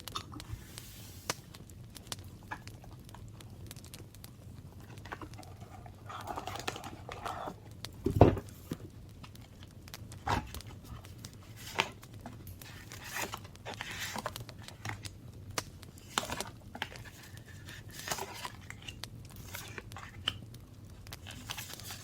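Paper being handled for journal crafting: scattered rustling, crinkling and tearing, with light taps and clicks and a heavier thump about eight seconds in.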